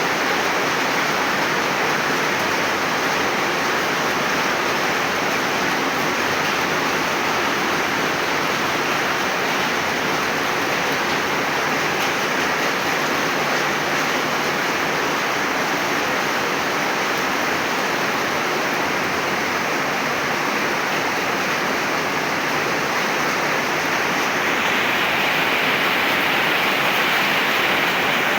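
Heavy rain pouring down steadily, growing a little louder about twenty-five seconds in.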